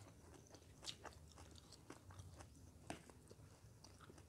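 Faint chewing and crunching of fried rice and fresh lemon basil leaves, with a few soft clicks scattered through.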